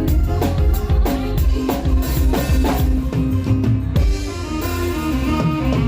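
Loud music with a driving drum kit and heavy bass, played through a large concert sound system during a sound check.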